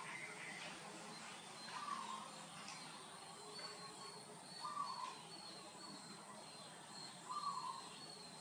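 Four short animal calls, each falling slightly in pitch, about two to three seconds apart, over a faint run of quick high chirps and steady background hiss.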